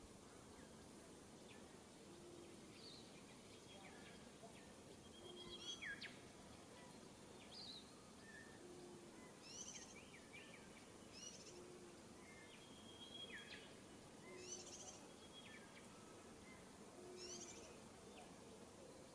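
Faint wild birdsong: short whistled notes and quick downward-sweeping calls, with a low hoot repeating every couple of seconds under them, over a steady outdoor hiss.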